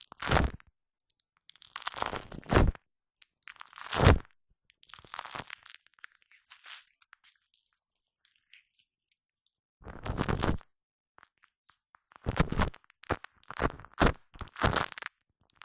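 Shaving foam squished and handled right on a Blue Yeti microphone, in short noisy bursts of under a second each, with a pause of about two seconds in the middle.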